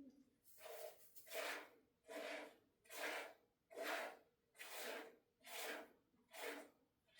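Hand-milking a dairy goat: streams of milk squirting into a container in a steady rhythm, about one hissing squirt a second.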